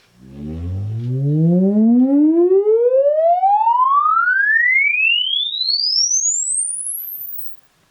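Sine-wave frequency sweep played through a JBL Go 3 portable Bluetooth speaker for a frequency-response measurement. The tone glides smoothly from deep bass up past the top of hearing over about seven seconds and cuts off just before the end. In the bass and lower mids, overtones follow the tone: the speaker's harmonic distortion, mostly second harmonic.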